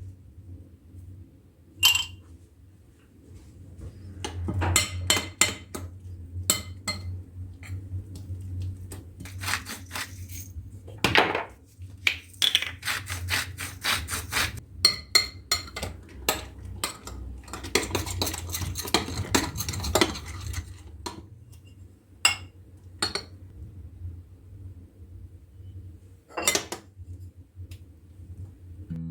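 Kitchen utensils and dishes clinking and knocking in irregular runs of sharp strikes, over a steady low hum.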